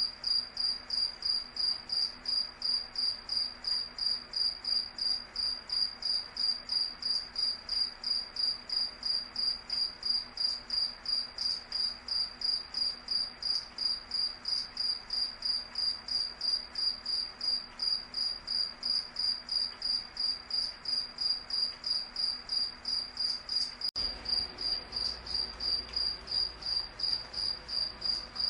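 Cricket chirping: a high, clear note repeated in an even rhythm of about three chirps a second, over a faint steady background.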